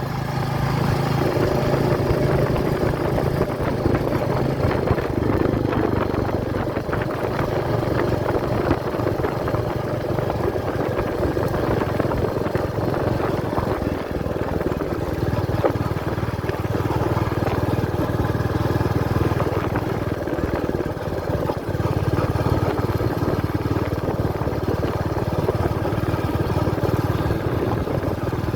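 Royal Enfield Meteor 350's single-cylinder engine running steadily.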